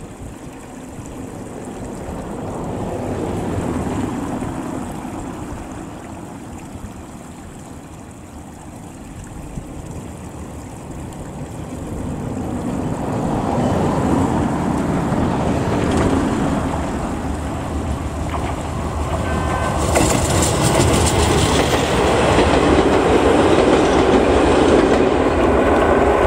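Electric commuter train of the Izuhakone Railway Daiyuzan Line approaching and running past close by. Its wheels rumble and clatter on the rails, growing louder until it is near, then the sound cuts off suddenly.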